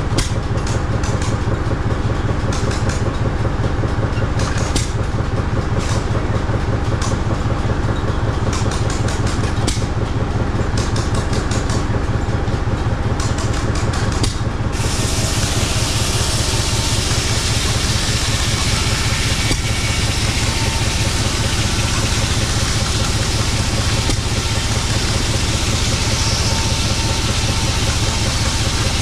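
An engine running steadily, with fast, even firing pulses. About halfway through, a steady hiss suddenly comes in on top.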